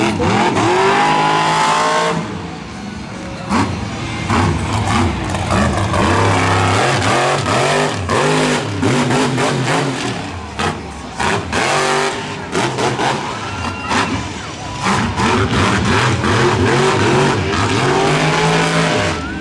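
Monster truck V8 engine revving hard in repeated surges, its pitch climbing and dropping, with sharp crashes of the truck hitting the dirt between them.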